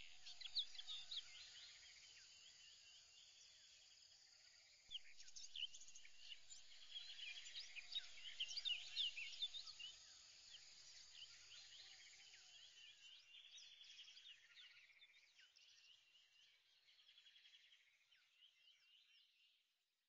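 Faint chorus of birds chirping, many short quick chirps, swelling about five seconds in and then gradually fading out.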